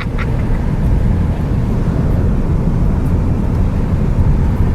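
Steady low rumble of road and wind noise inside a car travelling at freeway speed.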